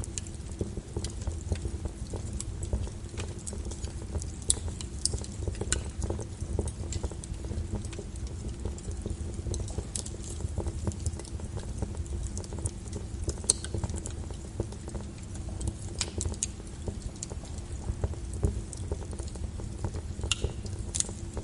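Wood fire burning with a steady low rumble and irregular crackles and sharp pops throughout.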